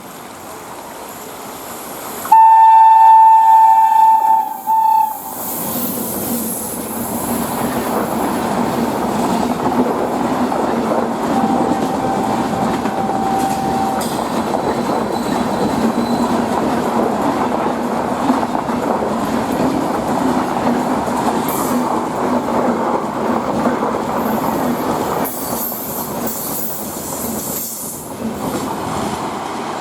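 An express passenger train's locomotive horn gives one loud two-tone blast of about two seconds, then a short second toot. The train then runs past with a steady rumble and clatter of wheels on the rails.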